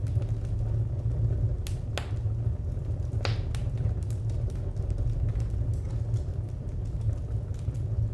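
Wood fire crackling: scattered sharp pops and snaps, the loudest about three seconds in, over a steady low rumble.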